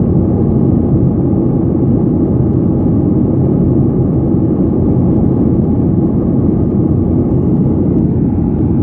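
Steady, loud low rumble of an aircraft's engine heard from inside the cabin during an aerial filming flight, unchanging throughout.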